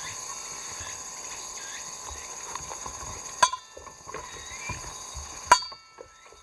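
A steady high-pitched chorus of summer insects, broken by two sharp clicks about three and a half and five and a half seconds in, after which the chorus drops away.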